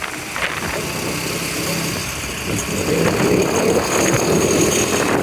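Motorbike engine running on the move, with road and traffic noise; it grows louder about halfway through.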